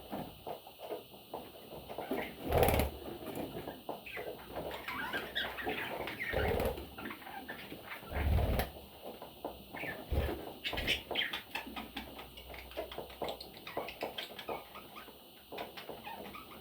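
Pet parrots chirping and scratching about, with a couple of dull thumps.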